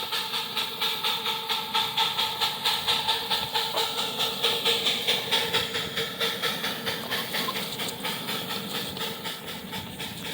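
Miniature live steam locomotive on 7.5-inch gauge track, working along with its exhaust chuffing about three times a second over a steady hiss. It grows quieter over the last few seconds as it draws away.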